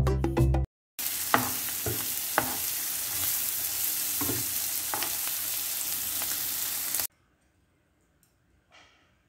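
A short music jingle ends within the first second. Then scrambled eggs and garlic chives (kutchay) sizzle in hot oil in a non-stick pan while a spatula stirs them, knocking against the pan a few times. The sizzling cuts off suddenly about seven seconds in, leaving near silence with a faint clink.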